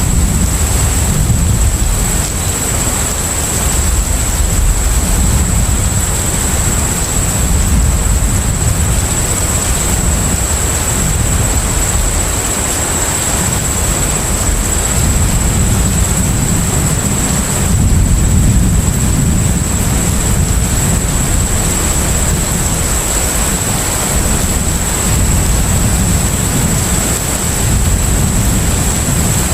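Container ship at sea: a steady low engine rumble under a wash of even noise, with a thin steady high tone throughout.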